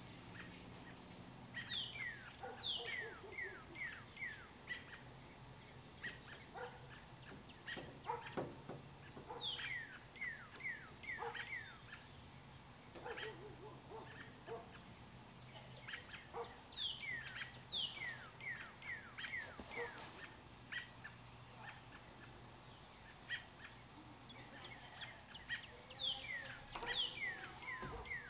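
Faint birdsong: a songbird sings a quick run of falling chirps, repeating the phrase every several seconds. Occasional dog barks can be heard behind it.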